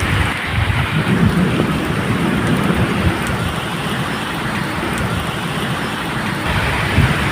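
Steady medium rainfall hissing evenly, with a low rumble of thunder underneath.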